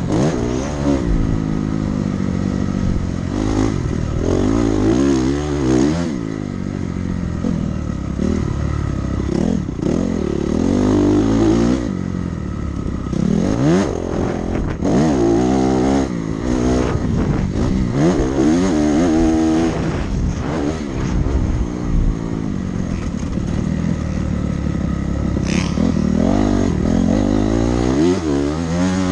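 Dirt bike engine under hard riding, its revs climbing and dropping over and over as the throttle is opened and closed and the gears change.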